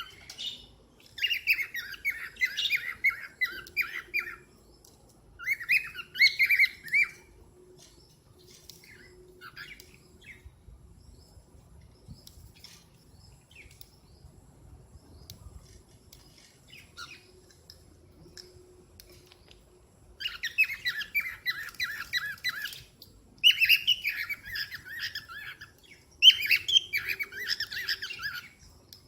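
Cockatiel chattering in quick runs of short warbling notes: two bursts in the first seven seconds, a quieter stretch with only a few faint notes, then three longer bursts near the end.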